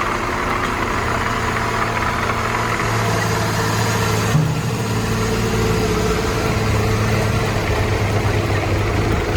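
Heavy-haul truck engine running steadily under load, a low drone with a noisy hiss over it. The hiss drops away a little over four seconds in, and the low engine note comes forward.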